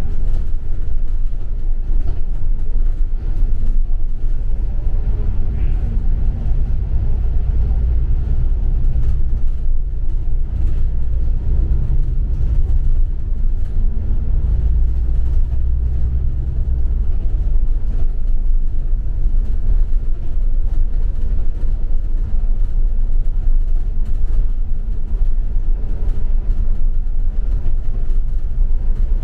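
Double-decker bus under way, heard from inside the cabin: a steady low rumble of engine and road noise.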